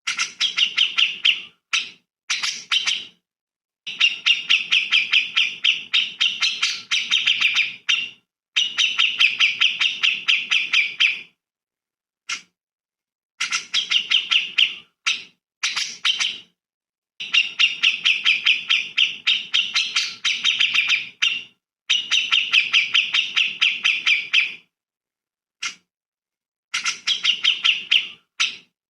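Recorded songbird song: bouts of rapid, closely repeated chattering notes, each bout lasting up to about four seconds, broken by short gaps of complete silence where the recording is cut.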